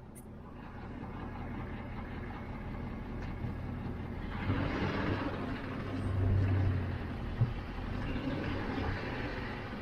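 Pickup truck's engine running as the truck pulls away towing a trailer. Engine and road noise grow louder about halfway through as it gathers speed, and there is a single sharp click about three-quarters of the way in.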